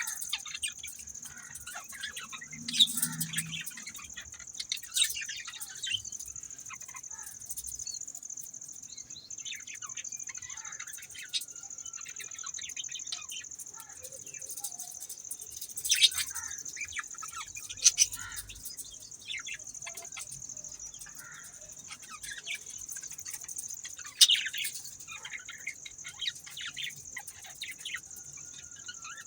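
Budgerigars chirping and warbling, with a few sharper, louder chirps scattered through, over a steady high-pitched hiss.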